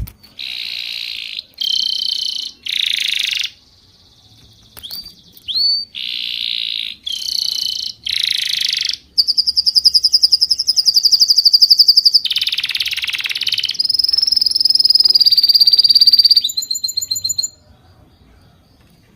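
Bird calls: a run of about seven short, buzzy, high calls, each about a second long. They are followed by a long, rapid, high trill that lasts several seconds and stops near the end.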